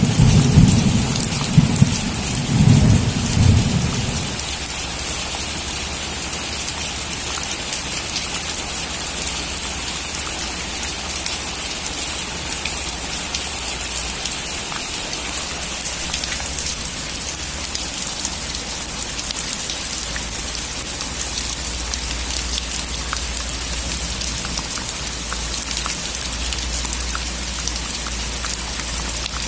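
Heavy rain drumming steadily on a metal roof, with a roll of thunder rumbling for the first few seconds before fading.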